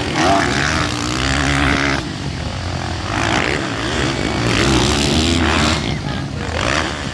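Motocross dirt bike engines revving and running as the bikes race the track, the pitch rising and falling with the throttle.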